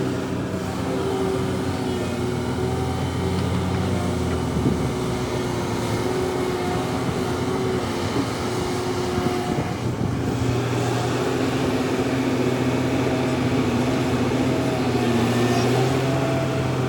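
Heavy diesel earthmoving machinery running steadily, an excavator and dump trucks at work, giving a continuous engine drone whose pitch wavers. The engine note changes about ten seconds in.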